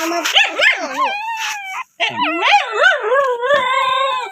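A dog whining and howling in a string of rising and falling vocal calls, breaking off for a moment about halfway, then ending in a longer, steadier howl.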